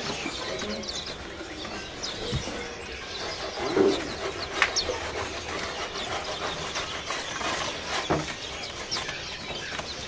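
Many caged songbirds calling at once: scattered short, high chirps and quick falling notes, with an occasional faint click.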